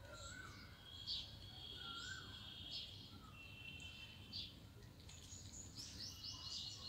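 Birds chirping, faint: short repeated chirps and, near the end, a rapid trill, over a low steady background rumble.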